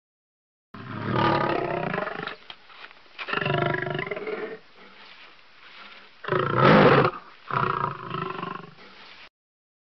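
Tiger roaring: four long, deep roars over about eight seconds, the third the shortest and loudest.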